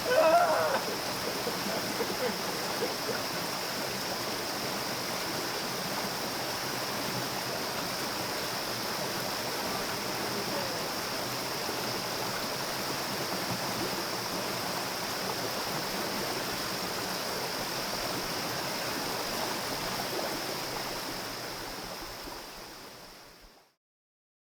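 River water running steadily, a continuous rushing with a steady high-pitched tone over it. It fades out near the end.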